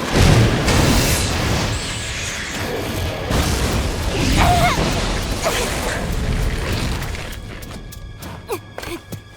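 Anime action soundtrack: a heavy boom at the start, then a rumbling roar of effects under music that slowly fades, leaving a few sparse clicks and short tones near the end.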